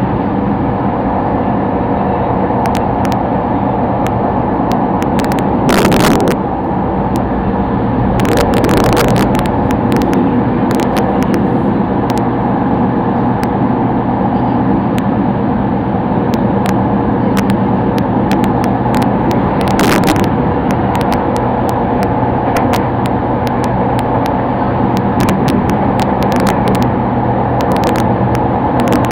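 Sotetsu Line commuter train running, heard from inside the car: a steady rumble with a constant hum, and a few sharp clicks and knocks along the way.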